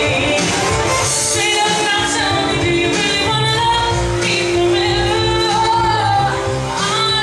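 A woman singing a pop song over a backing track, holding some notes for about a second.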